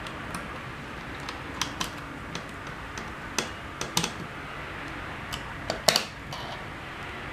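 Irregular sharp clicks and taps from small hard objects being handled, over a steady hiss, with the loudest clicks coming in quick pairs about four seconds in and near six seconds.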